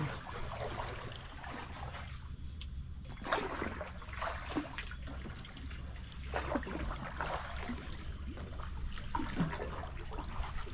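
Canoe paddle strokes through calm water, with drips and small splashes, under a steady high-pitched buzz.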